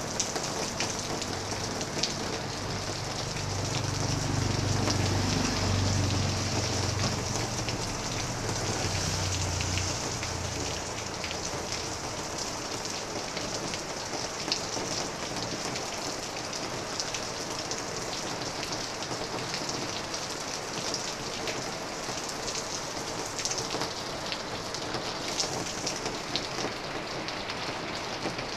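Heavy typhoon rain falling steadily, a dense hiss of many small drop ticks. A low rumble swells and fades over roughly the first third.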